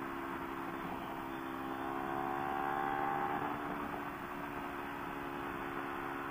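Kawasaki Ninja 300's parallel-twin engine running steadily at highway speed over wind and road noise. A faint higher whine rises slightly in pitch about two to three seconds in as the bike speeds up.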